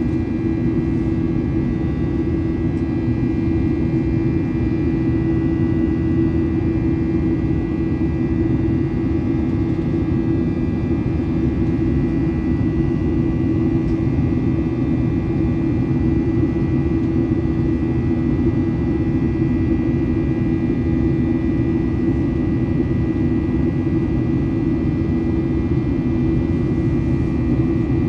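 Boeing 737-900ER cabin noise: steady drone of the CFM56-7B jet engines with airflow rumble, heard from inside the cabin. It holds one steady tone with no change in pitch or level.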